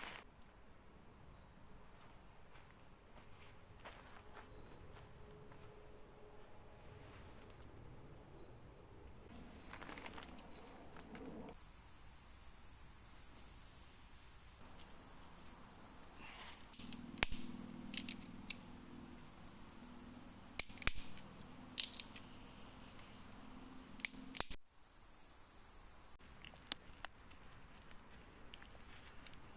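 A steady, high-pitched insect chorus that grows louder partway through and drops back near the end, with scattered sharp clicks and snaps in the middle.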